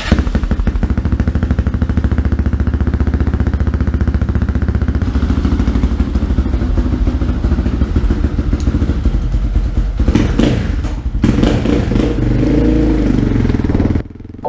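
Off-road vehicle engine running with a fast, even pulse. The sound changes abruptly about ten seconds in and cuts off suddenly near the end.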